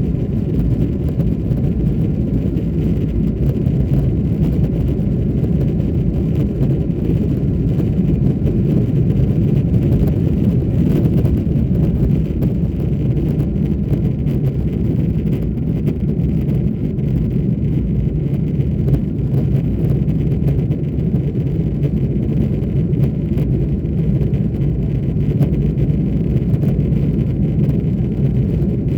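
Boeing 777-300ER's GE90 jet engines at takeoff and climb power, heard from inside the cabin as a loud, steady low rumble with airflow noise.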